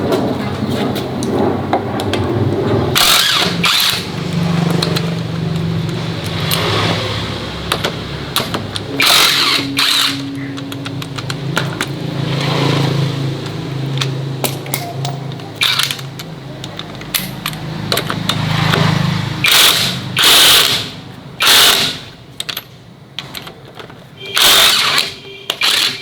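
A motor humming steadily, cut by several short noisy bursts that sound like a power tool. The hum stops about three-quarters of the way through, and the last bursts stand out alone.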